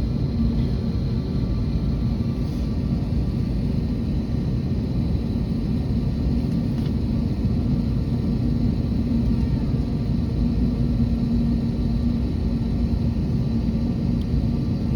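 Airbus A321neo airliner making a steady low rumble with a constant hum running through it, holding even without rising or falling.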